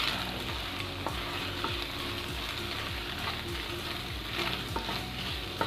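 Boiled chicken with scrambled egg and chopped green chilli, ginger and garlic sizzling steadily in hot oil in a pan while being stirred, with scattered clicks and scrapes of the spatula against the pan.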